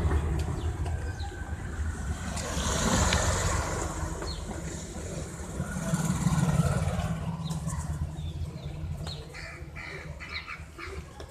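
Street traffic: vehicles passing, swelling twice and then fading, with birds chirping near the end.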